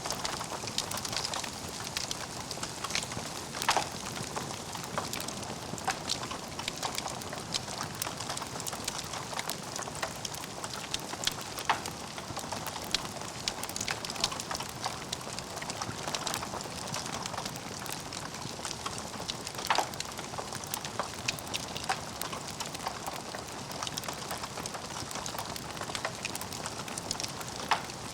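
Logs burning in a fireplace, crackling steadily with a scatter of sharper pops, a few of them louder than the rest.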